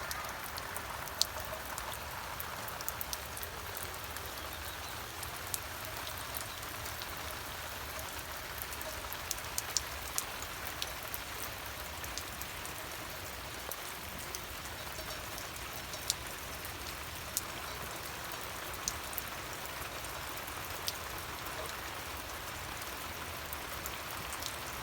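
Rain falling: a steady hiss with scattered sharp ticks of drops.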